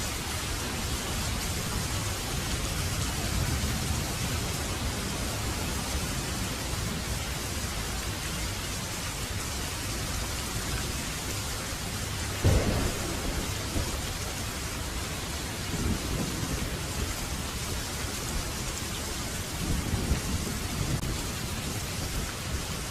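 Heavy rain falling steadily, with a sharp clap of thunder about halfway through and softer rolls of thunder after it.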